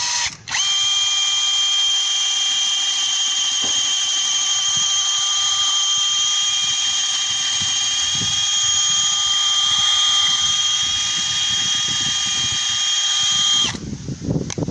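Power drill spinning a rotary chimney-sweep rod with a plastic brush inside a sandwich flue, a steady high motor whine with a low scraping rumble beneath. It starts after a brief blip and cuts off about a second before the end.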